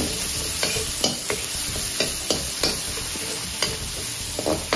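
Chopped garlic sizzling in oil in a hot wok. A metal wok ladle stirs it, scraping and clacking against the pan about eight times at an uneven pace.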